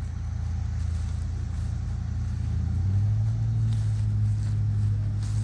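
Motor vehicle engine running nearby, a low steady hum that grows louder and slightly higher about three seconds in.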